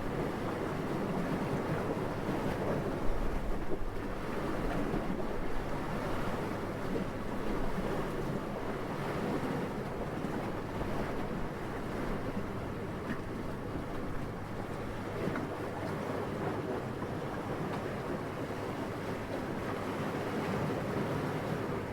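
Steady, gentle wind: an even rushing that swells and eases slowly, with one brief louder gust about three seconds in.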